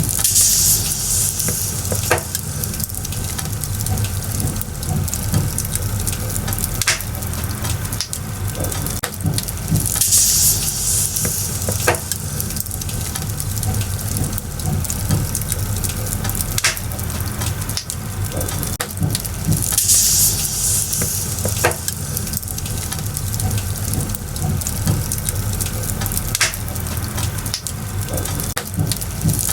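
Firewood burning in an open fire, crackling with scattered sharp pops over a steady low rumble. A high hiss swells briefly about every ten seconds.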